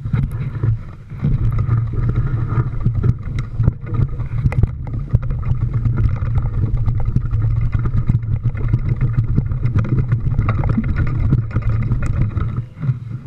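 A vehicle engine running steadily while driving over a rough trail, with many short knocks and rattles from the bumps.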